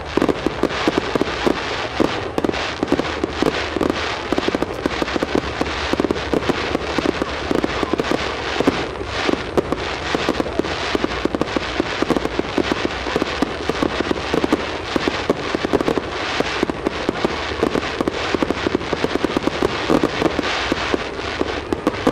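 Aerial fireworks going off in a dense, continuous crackle of rapid pops and bangs, with no let-up.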